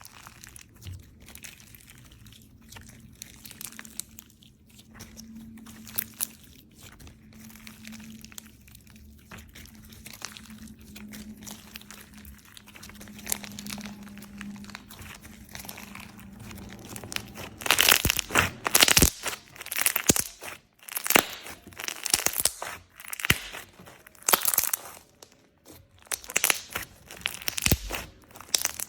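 Slime being squeezed and pressed by hand, giving a run of small crackles and pops that turn into louder, thicker crunches about two-thirds of the way through.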